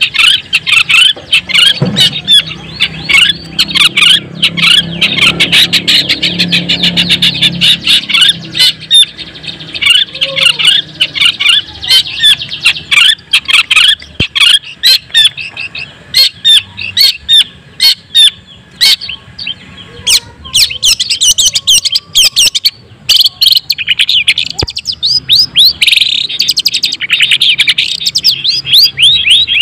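Long-tailed shrike of the white-breasted 'cendet daput' type singing a fast, nonstop run of sharp chattering notes, with a short break about three quarters of the way through.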